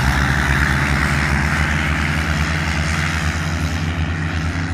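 Tractor engine running steadily, a deep even drone with a rushing hiss over it that eases slightly near the end.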